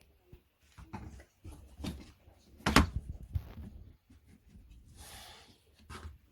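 Flat-pack furniture parts being handled: a string of knocks and clacks, the loudest a sharp knock a little under three seconds in, then a brief scraping slide about five seconds in.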